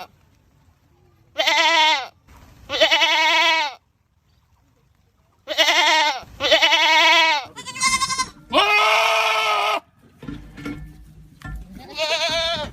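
Goats screaming: about seven loud bleats in a row, each half a second to a second long, with a wavering pitch and short gaps between them. A low rumble fills a pause near the end.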